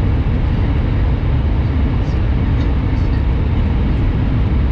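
Steady running noise inside a Shinkansen bullet train travelling at speed: an even, loud low rumble and rush of wheels, track and air.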